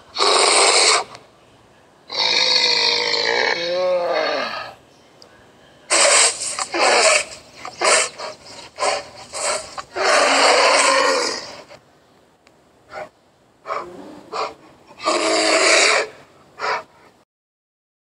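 Brown bear roaring and growling: a series of loud calls, each about one to two seconds long, with wavering pitch, and a run of shorter calls near the end.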